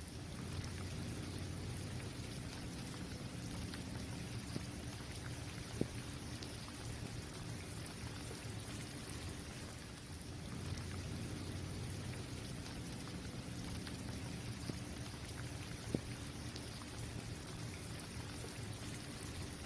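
Steady rain falling on a basketball court, an even hiss of drops with a low rumble underneath. Two sharper single taps stand out, about six seconds in and again near the end.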